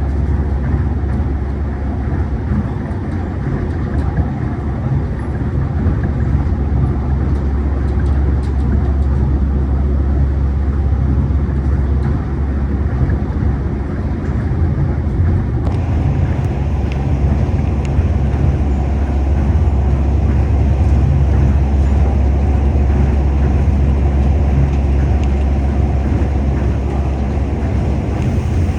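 Tokyo Monorail train running, heard from inside the car: a steady low rumble with running noise. About halfway through, the higher hiss suddenly gets louder and stays that way.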